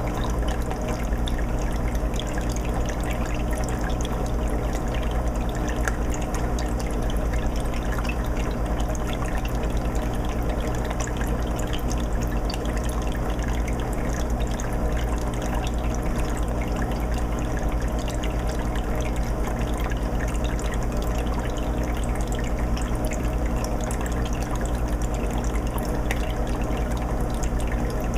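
Aquarium water filter running on a 20-gallon fish tank: steady trickling and bubbling water over a constant low hum.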